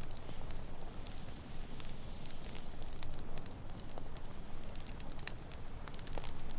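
Campfire crackling, with many sharp irregular snaps and pops, over a steady low rush of ocean waves.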